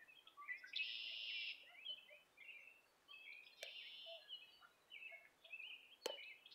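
Faint songbirds singing and chirping, with many short whistled notes and two longer rasping trills, one about a second in and one near four seconds. There are a couple of sharp clicks, one near the end.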